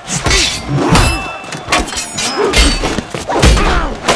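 Added fight sound effects for a spear-against-greatsword duel: a run of sudden hits and clashes about once a second, with swooping whooshes of weapon swings between them.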